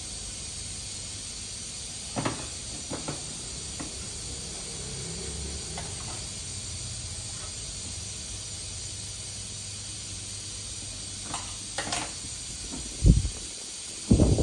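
A steady hiss with a low hum beneath it, broken by a few light knocks and one loud sharp thump near the end.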